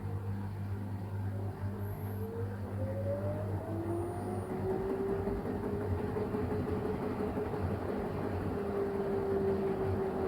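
LG washing machine running with a steady low hum, its motor whine rising in pitch as the drum speeds up, then holding steady through the second half.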